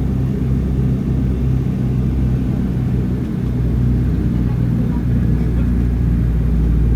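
Steady, loud drone of a Douglas DC-3's two radial piston engines.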